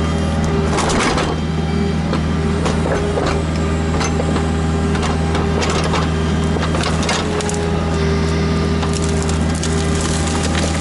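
Kubota KX121-3 mini excavator's diesel engine running steadily under a constant hydraulic whine, with irregular sharp knocks and cracks as the machine works.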